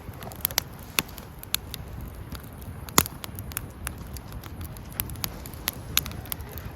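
Wood campfire crackling: irregular sharp pops and snaps, the loudest about three seconds in, over a low steady rumble of the burning fire.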